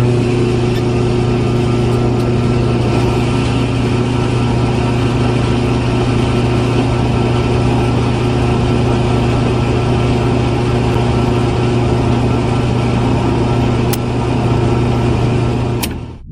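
Engine running at a steady idle with an even, unchanging hum, cutting off abruptly near the end.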